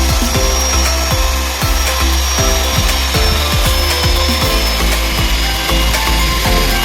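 Abrasive nylon brush wheel spinning on a power tool and rubbing against wood, a steady scouring noise with a thin high whine, under background music with a bass line.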